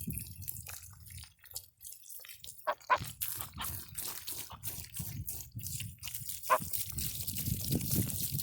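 Water from a garden hose splashing and dripping in irregular spatters, over a low rumble that gets louder after about three seconds.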